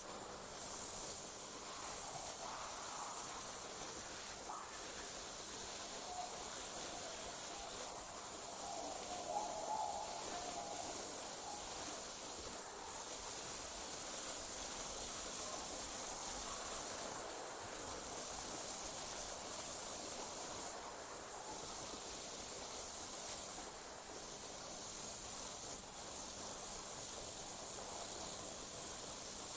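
Night insects, crickets or similar, trilling continuously at a high pitch, with a short break every few seconds.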